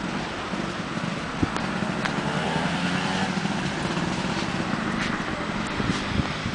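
Motor scooter engines running steadily, with a few sharp clicks on top.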